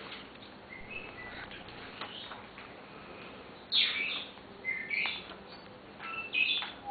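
African grey parrot making short whistles and chirps. A few soft notes come in the first couple of seconds, then louder falling chirps about four, five and six and a half seconds in.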